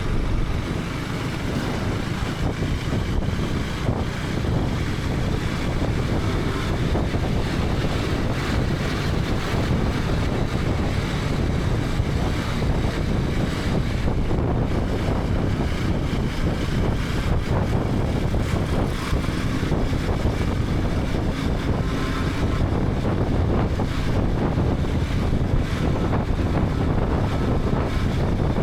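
Steady wind rushing over a helmet-mounted action camera's microphone, with a KTM 250 Adventure's single-cylinder engine running beneath it at a steady cruise.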